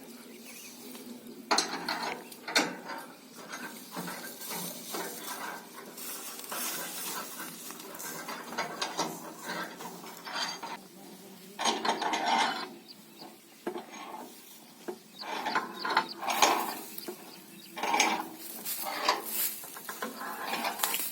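Irregular metallic clanks, rattles and scrapes of machinery at work, knocking at uneven intervals over a faint steady hum.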